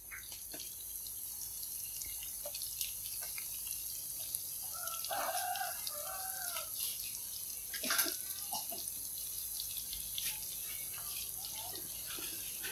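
Tofu slabs and snakeskin gourami frying in hot oil: a steady sizzle with scattered small crackles and pops, and one louder pop about eight seconds in.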